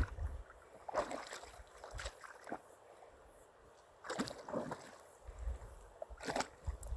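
Kayak paddle strokes on river water: a handful of irregular splashes and drips, with low rumbles on the phone's microphone in between.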